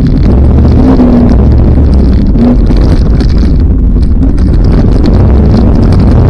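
Off-road vehicle engine running loud and steady, close to the microphone.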